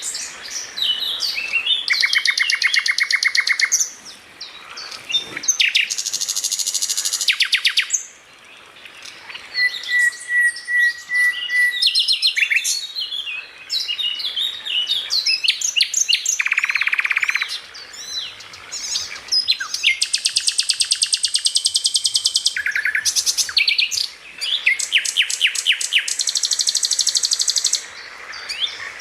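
Songbird song for masteran training: bursts of rapid, high rattling trills and chattering phrases, each a few seconds long, with short breaks between them.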